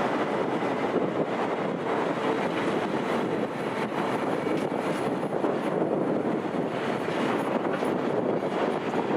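An electric-locomotive-hauled passenger train running past, a steady rumble of wheels on rail.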